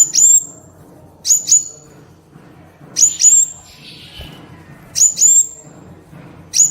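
A sunbird calling loudly: high, sharp double notes, each note a quick downward sweep, repeated about every one and a half to two seconds, five pairs in all.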